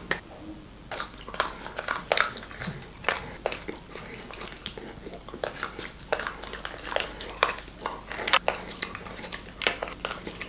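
Close-up chewing and biting of chocolate: irregular small crunches, clicks and wet mouth sounds.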